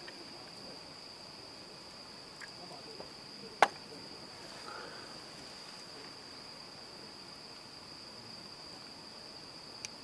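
Crickets trilling, a steady unbroken high-pitched tone, with a single sharp click a little over a third of the way in.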